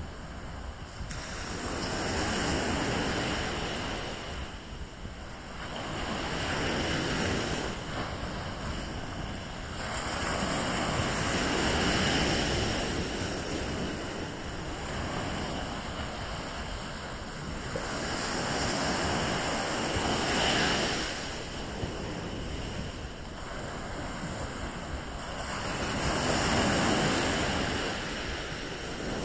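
Sea waves breaking on the beach, a hissing surge that swells and fades every four to seven seconds, with wind buffeting the microphone.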